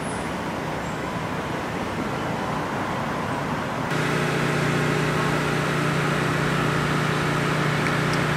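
Steady outdoor rushing noise, then from about four seconds in a steady low-pitched engine hum that continues without change in pitch.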